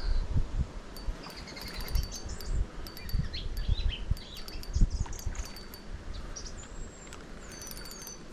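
Birds chirping and singing, with several clear whistles sliding down in pitch near the end, over low rumbling thumps and a few quick runs of ticks.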